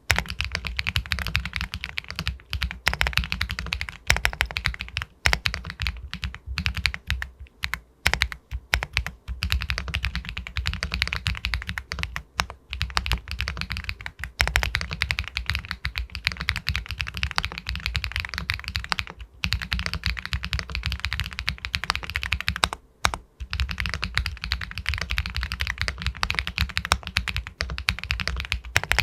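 Fast, continuous typing on an Epomaker Galaxy 80 Pro aluminium mechanical keyboard with White Jade linear switches, with a few brief pauses in the keystrokes.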